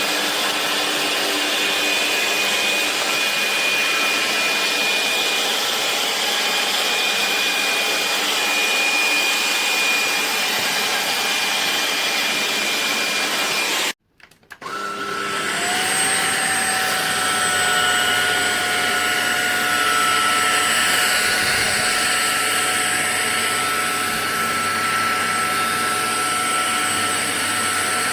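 Ultenic U16 Flex cordless stick vacuum running with a steady high whine and rush of air. About halfway it cuts out abruptly, then starts again, its whine rising back up to a steady pitch.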